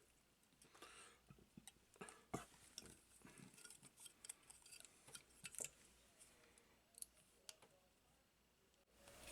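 Faint, scattered small clicks and taps of parts and hand tools being handled at a workbench during a drone frame repair, irregular and without rhythm.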